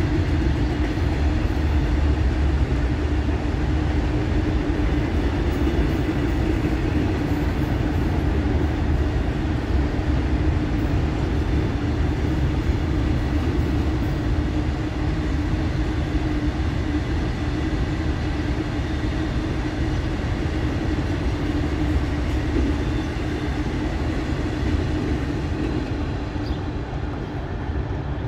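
Open-top freight wagons of a goods train rolling past, a steady noise of steel wheels running on the rails, easing off near the end as the last wagon and brake van go by.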